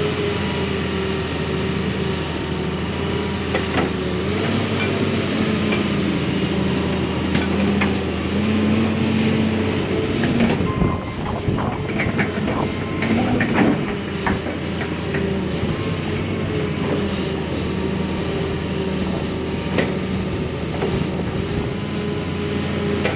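Tracked excavator's diesel engine running steadily while digging out a ditch, with sharp metal clanks and knocks that cluster around the middle.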